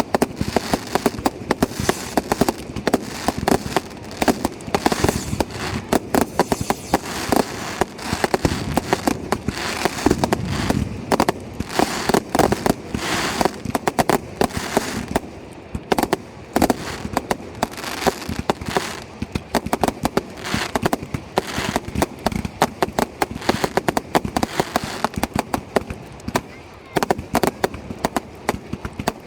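Fireworks display going off: a dense, continuous run of bangs and crackling bursts, many a second.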